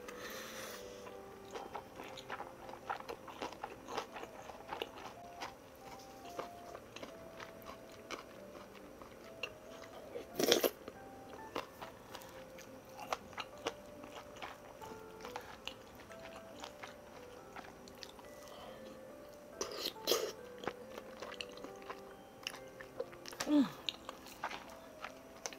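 A person chewing and biting food, with many small wet clicks, over soft background music. There are a couple of louder sharp sounds, about ten and twenty seconds in.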